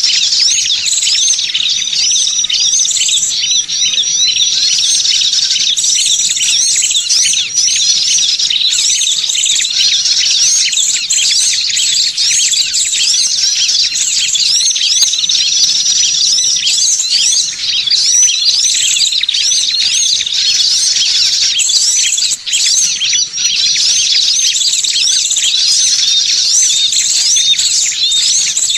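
Dense, continuous chorus of many small birds chirping and twittering rapidly over one another, as used in a bird-lure recording, with a steady high tone underneath.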